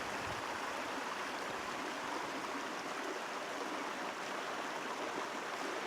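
A small creek running steadily, a constant even wash of water with no breaks. The creek is low, with not a lot of water in it.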